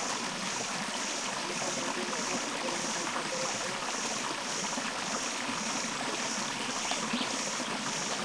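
Steady rush of flowing water, with a faint high-pitched pulse repeating about one and a half times a second.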